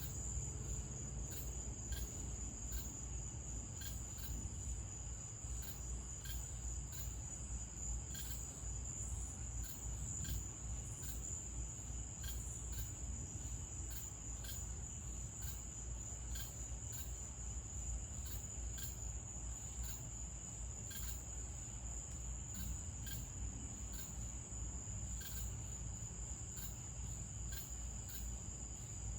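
Night insects, crickets, trilling in a steady, high, continuous chorus, with a low rumble of background noise underneath.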